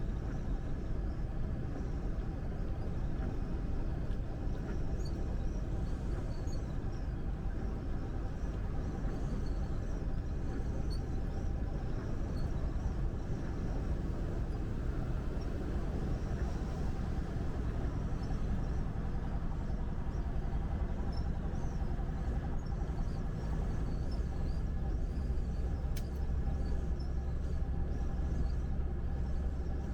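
A truck driving at highway speed: a steady low engine and road rumble that grows a little heavier in the last few seconds.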